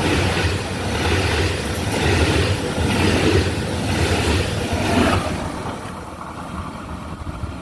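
Train passing on the line: a steady low engine hum under a rhythmic clatter about once a second, fading away after about five seconds.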